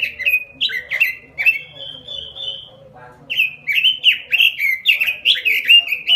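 Pekin robin (red-billed leiothrix) singing a fast string of short falling notes, with a brief pause about halfway through.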